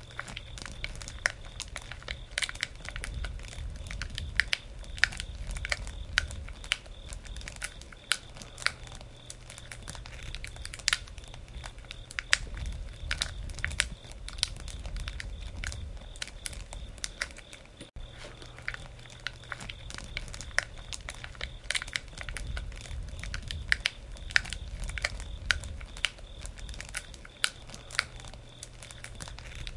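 Wood campfire crackling, with many irregular sharp pops and snaps over a low rumble that swells and fades every few seconds.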